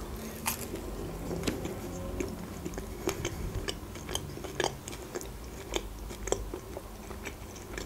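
A person biting into a burger and then chewing it close to the microphone: a run of irregular small mouth clicks, about one or two a second.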